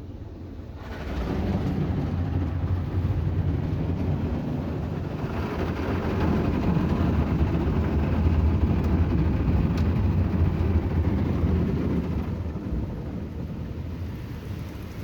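Ryko Voyager automatic car wash machine running over the car: a steady washing noise with a low hum. It starts about a second in and is loudest through the middle.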